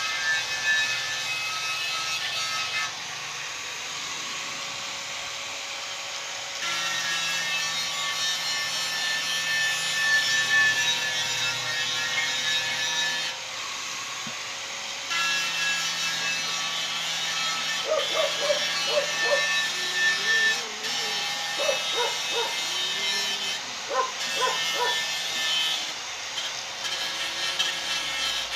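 Scraping and rasping of hand work on an old motorcycle fuel tank, heard in several abrupt segments. Short pitched chirps sound between about two-thirds of the way in and near the end.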